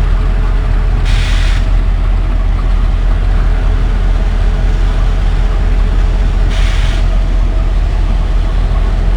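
Passenger train running: a steady, heavy low rumble, with two brief hissing bursts, one about a second in and one near seven seconds.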